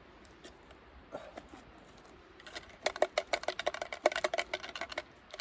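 Hands rummaging through a small geocache container, pulling items out. It is faint at first, then a quick flurry of clicks and crinkles starts about halfway through and dies away near the end.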